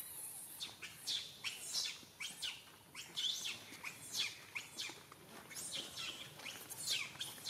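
Small birds chirping, a run of short high notes that each fall quickly in pitch, repeating irregularly a few times a second.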